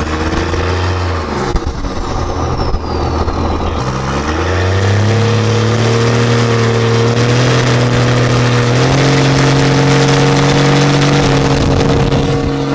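Cummins turbo-diesel pickup engine under way: its pitch drops about a second in as the throttle eases, with a high turbo whistle falling away, then it climbs again and holds steady under load, stepping up slightly near the end.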